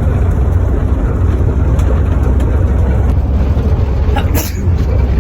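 Car driving on a dusty unpaved road, heard inside the cabin: a steady loud low rumble of tyres and engine, with a few sharp clicks near the end.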